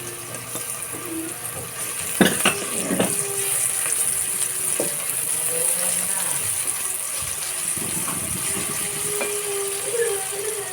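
Pork pieces frying in hot oil for crispy kare-kare, a steady sizzle, with two knocks about two and three seconds in.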